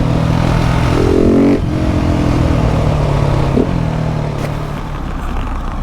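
KTM 690 SMC R's single-cylinder engine pulling on the road, revs climbing and then dropping sharply at a gear change about one and a half seconds in, then running steady with another brief break in the note at about three and a half seconds.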